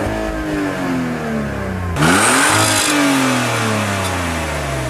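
A parked car's engine being revved: the revs fall away from a peak over about two seconds, then a sharp blip about two seconds in sends them climbing again, and they slowly sink back toward idle.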